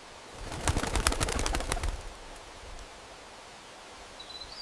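A bird's wings flapping in a quick clattering flurry for about a second and a half, followed near the end by a brief high chirp from a small bird, over a quiet outdoor background.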